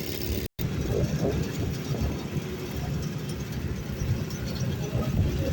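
Heavy truck engine running with a steady low rumble, broken by a sudden brief dropout about half a second in.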